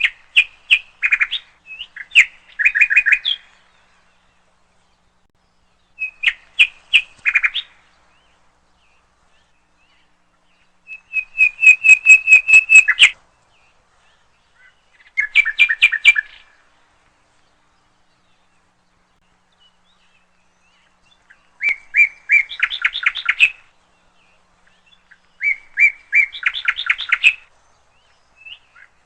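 A songbird singing, close and clear: about six short phrases of rapid chirps, each lasting a second or two and separated by pauses of a few seconds.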